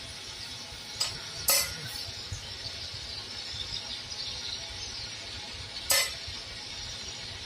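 Four sharp metallic clinks of metal striking metal, three close together about a second in and one more near the end, over a steady high hiss.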